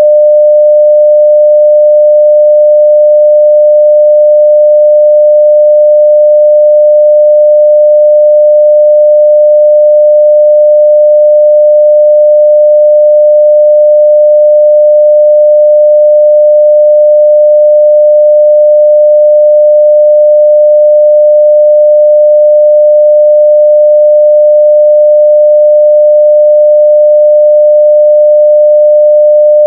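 Continuous 600 Hz sine-wave test tone at full level (0 dB), one steady pitch without a break.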